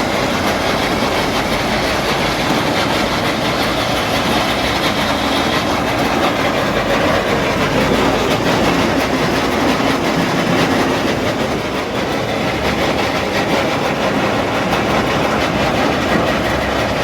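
Tractor-driven rice thresher running steadily, a loud, even mechanical rattle with no pauses.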